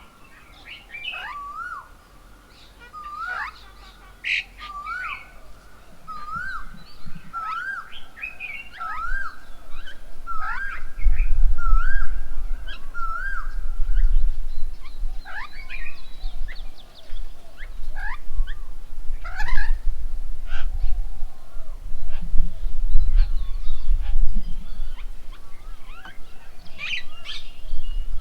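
Birds calling: one repeats a short rising two-part note about once a second for roughly the first half, among scattered higher chirps. From about halfway a low rumble comes in and is the loudest thing.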